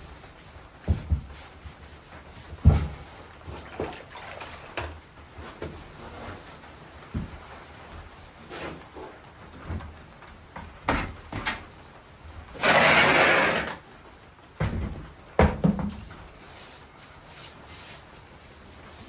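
Wet sponge being worked over freshly laid porcelain floor tiles to wipe off excess thinset mortar, with scattered light knocks and clicks. A little past the middle comes a louder rushing noise lasting about a second and a half, the loudest sound here.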